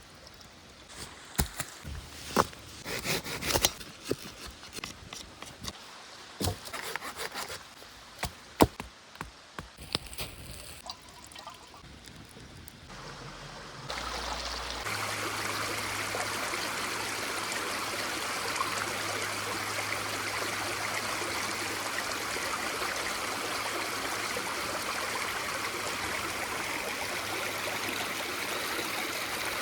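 Irregular sharp clicks and knocks for the first half, then a sudden switch to the steady rush and trickle of a small stream.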